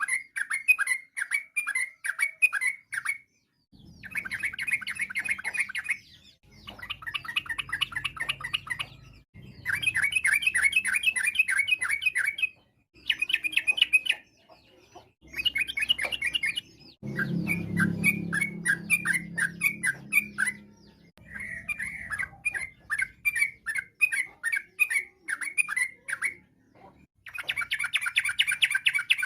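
Yellow-vented bulbul (trucukan) singing a fast, chattering song. The song comes in repeated bursts of quick notes, each two to three seconds long, with short pauses between them.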